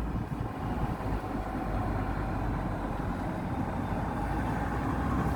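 Chevrolet Tahoe driving, its engine and tyre noise heard from inside the cabin as a steady low rumble.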